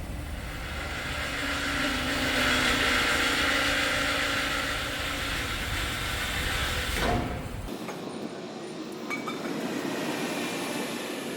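Metal-cutting saw cutting through steel square hollow section. A steady grinding rumble builds to its loudest a couple of seconds in, ends with a short clank about seven seconds in, then drops to a lighter running sound.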